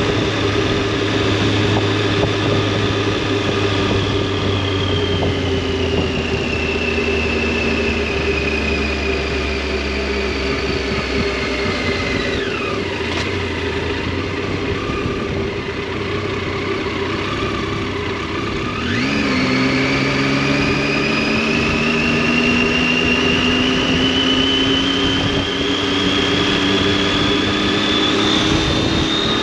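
Triumph Tiger 800's three-cylinder engine and exhaust heard from the moving bike. The engine note falls slowly as the bike eases off and dips lower around the middle, then about two-thirds of the way through it picks up again and rises steadily as the bike accelerates.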